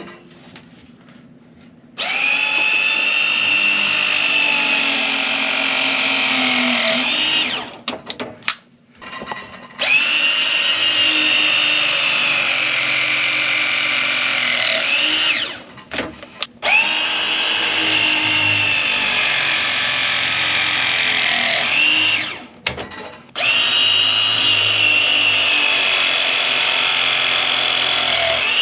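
Power tool motor whining steadily in four runs of about five seconds each, with short pauses between them; each run ends with a quick swoop in pitch.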